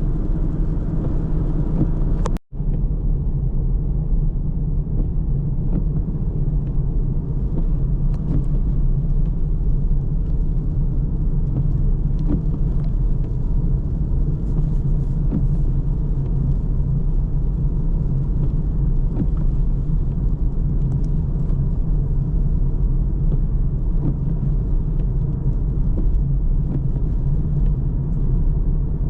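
Steady low rumble of a car driving, engine and tyre road noise. The sound drops out for a split second about two and a half seconds in.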